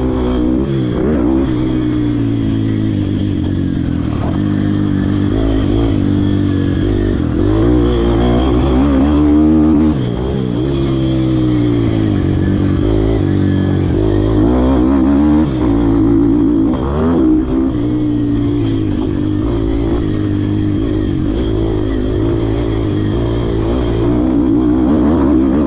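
YCF Bigy 150 MX pit bike's single-cylinder four-stroke engine being ridden hard, its pitch rising and falling again and again as the rider accelerates and backs off.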